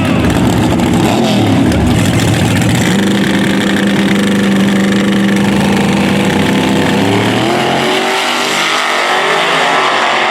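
Drag-race engine at high revs: uneven at first, then held at a steady pitch for a few seconds, then climbing in pitch near the end as it pulls away.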